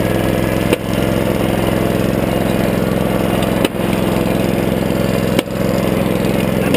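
Small engine running steadily at a constant speed, with three brief clicks where the sound dips for a moment.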